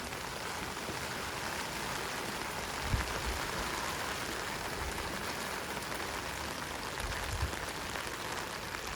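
Steady rain falling, an even hiss, with a couple of brief dull bumps about three seconds in and again near seven seconds.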